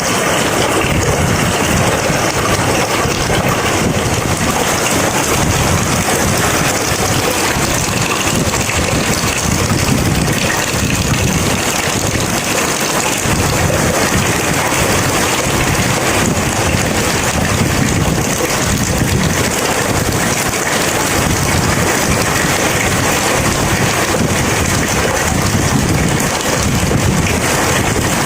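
Heavy steady rain pouring down, with a low rumble of thunder or wind underneath during a thunderstorm.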